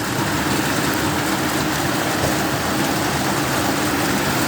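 Heavy thunderstorm rain with hail pouring down steadily, an even hiss.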